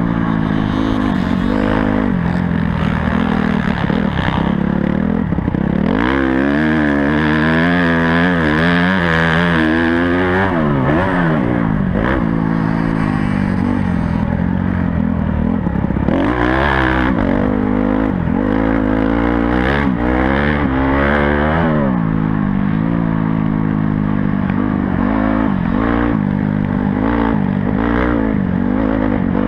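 Honda CRF250 four-stroke motocross bike's engine being ridden hard, revving up and dropping back again and again through throttle changes and shifts.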